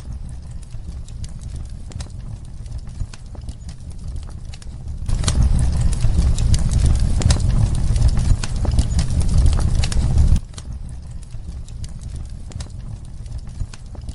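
Fireplace crackling: a steady low rumble of burning with scattered sharp pops and snaps. About five seconds in it grows louder and denser, then drops back abruptly about five seconds later.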